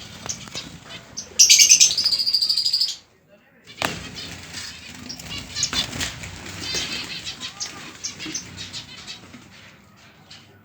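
Pet finches chirping in many short, high notes, with a loud, rapid buzzing burst about a second and a half in and a brief drop to near silence a little after.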